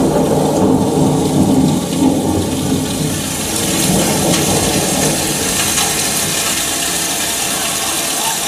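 Recorded rain-and-thunder sound effect in a dance routine's music track. It is a steady hiss of rain, with a low thunder rumble that fades after about three seconds.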